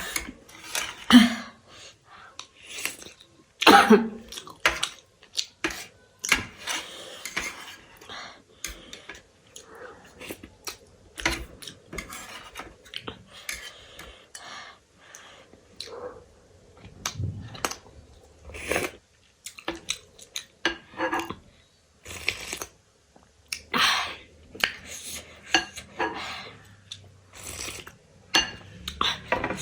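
Close-up eating sounds: cutlery clinking against a plate, mixed with chewing and mouth smacks in many short, irregular clicks. A couple of brief vocal sounds, like a hum or throat noise, come in the first few seconds.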